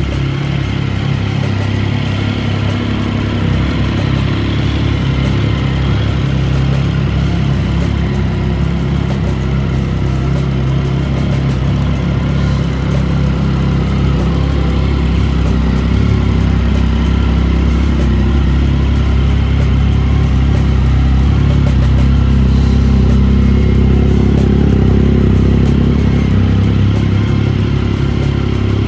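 Triumph Tiger 1050's three-cylinder engine running steadily through aftermarket Quill exhausts.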